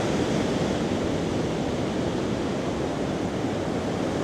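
Big Atlantic waves breaking and washing up the beach: a steady, unbroken rush of surf.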